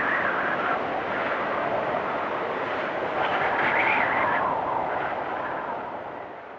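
Blizzard wind gusting in a steady rush, swelling about four seconds in and then dying away near the end.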